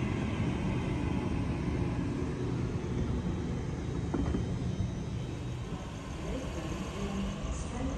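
Sydney Trains double-deck electric train rolling along the platform, a steady rumble of wheels on rails.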